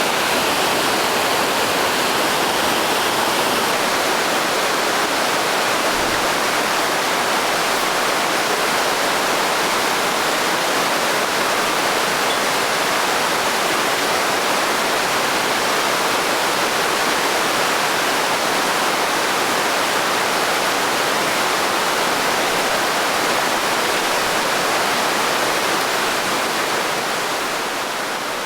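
Naena Falls, a large waterfall in heavy snowmelt flow, rushing steadily as a dense, even wash of falling water, dipping a little in level near the end.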